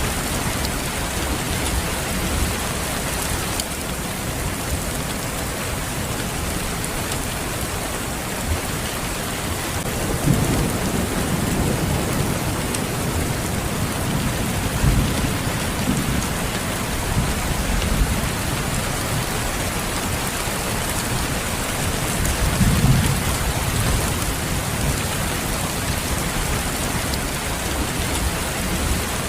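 Steady rain falling, with low rumbles of thunder swelling up about ten seconds in and again later on.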